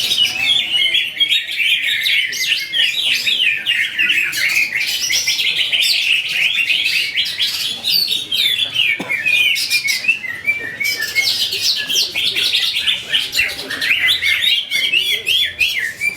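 Cucak ijo (greater green leafbird) singing in a continuous, rapid stream of high chirps, trills and warbles.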